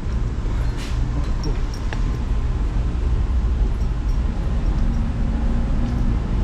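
Passenger train running with a steady low rumble and a few faint clicks.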